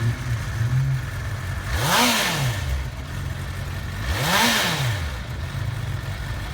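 Honda CBR600RR's 600cc inline four-cylinder engine idling, blipped twice: the revs rise and fall quickly about two seconds in and again about four and a half seconds in, then settle back to idle.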